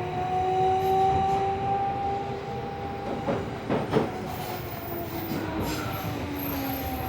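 Tokyo Metro 16000 series subway car running between stations: the VVVF inverter and traction motors give two steady whining tones that rise slightly and then ease down in pitch, over the rumble of wheels on rail. A couple of sharp wheel clicks over rail joints come about three to four seconds in.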